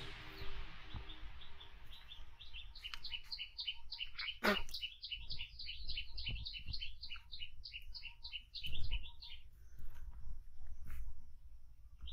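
A small bird singing a long, fast run of short high chirps for about seven seconds, then starting again near the end. A sharp single sound cuts in about four and a half seconds in, and low rumbling bumps run underneath, loudest about nine seconds in.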